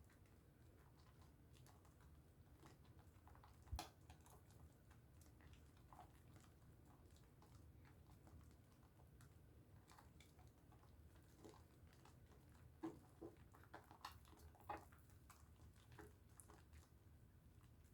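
Faint wet squishing and small clicks of a bar of pink Dove soap being lathered in wet hands, with a few louder clicks about four seconds in and again near the end.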